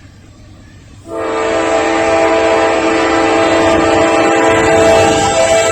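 Norfolk Southern diesel locomotive's air horn sounding one long blast, a steady chord of several tones starting about a second in and cutting off sharply near the end, over a low rumble of the train.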